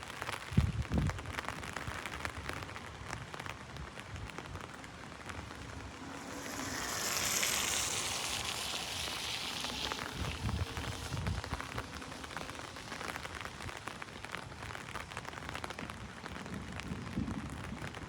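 Heavy rain pattering on an umbrella, a dense, steady run of drop ticks. About six seconds in a hiss swells up, peaks and fades by about ten seconds, and a few low thumps come near the start and again in the middle.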